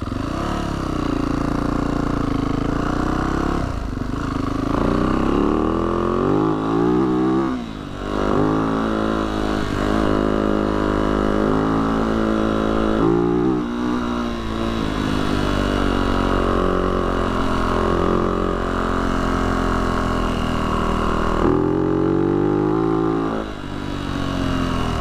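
Yamaha YZ450F dirt bike's 450 cc single-cylinder four-stroke engine under way on a trail, its pitch rising and falling with the throttle, with brief drops in revs about 8 seconds in and again near the end.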